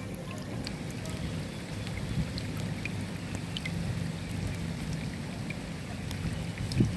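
Steady rain, with single drops ticking and splashing close by over a low, steady rumble. One short, dull thump near the end.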